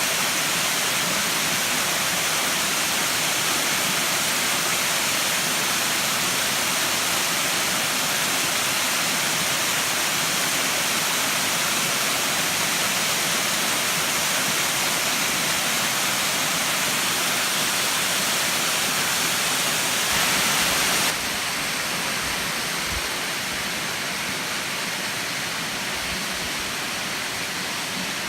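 Waterfall: a steady rush of falling water, dropping a little in level near the end.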